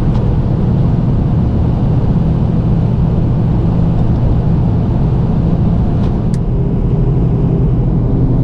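Plow truck driving, heard from inside the cab: a steady low drone of engine and road noise, with a brief click about six seconds in.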